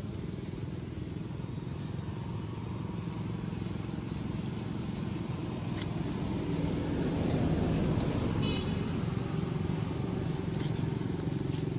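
An engine running steadily with a low hum, growing louder about six seconds in.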